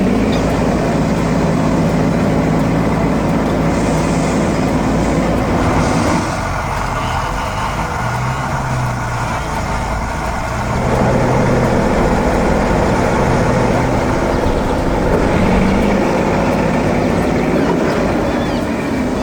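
Heavy truck engine running steadily, with its low tone shifting from about six to eleven seconds in and short hisses about four and six seconds in.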